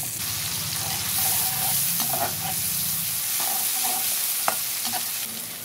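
Onions and ginger-garlic paste sizzling in hot oil in a metal wok, stirred with a slotted metal spatula that scrapes against the pan. The sizzle is steady, with one sharp tap of the spatula about four and a half seconds in.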